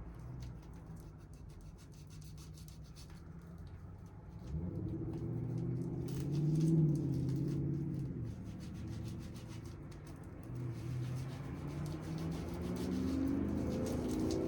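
A motor vehicle's engine rising and falling in pitch, swelling about a third of the way in and rising again toward the end, over light rubbing and rustling of packaging being pulled off.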